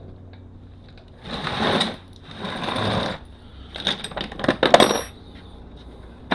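Metal hand tools and sockets rattling and clinking as they are handled, in a few bursts, with a sharp clatter of metal clinks and brief ringing about four to five seconds in.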